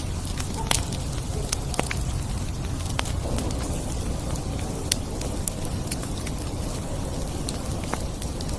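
Campfire burning: scattered sharp crackles and pops at irregular intervals over a steady low rumble.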